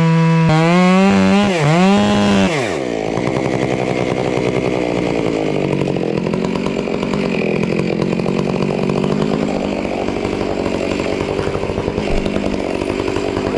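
Chainsaw revving high and steady, dipping twice in pitch, then dropping and turning rough at about three seconds as the chain bites into the wood. It runs on under load through the cut, trimming a stump level.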